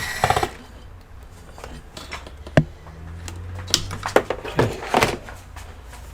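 Hard plastic clicks, knocks and short scrapes of a computer casing being handled and worked open, with a sharp knock about two and a half seconds in and a cluster of clicks and scrapes near the end.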